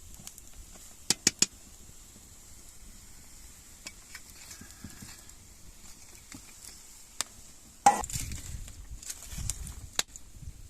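Scattered sharp knocks and clicks from objects being handled: three quick ones about a second in, then a louder knock near eight seconds followed by low rumbling and rustling.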